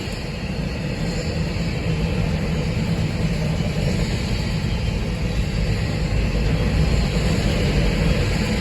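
Freight train rolling past, a steady rumble with rail noise that rises a little toward the end.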